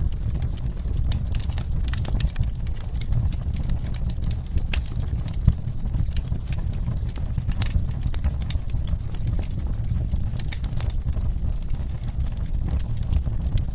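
Wood fire in a fireplace crackling, with frequent irregular sharp pops over a steady low rumble, mixed with falling rain.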